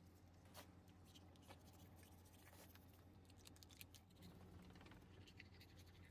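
Near silence: a faint steady low hum with scattered faint clicks and ticks.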